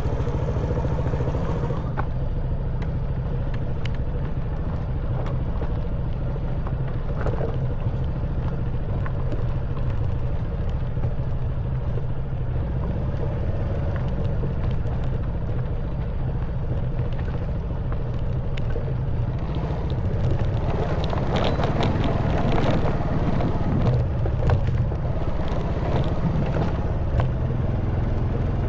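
Honda Wave 110cc single-cylinder four-stroke motorbike engine running steadily while riding over a stony track, with scattered knocks and rattles from the bike and tyres on stones. About two-thirds of the way through, a stretch of louder crunching and rattling over rougher ground.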